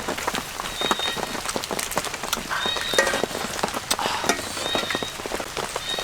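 Dense, irregular crackling patter of many small clicks and taps, with a faint short high chirp recurring about every second and a half.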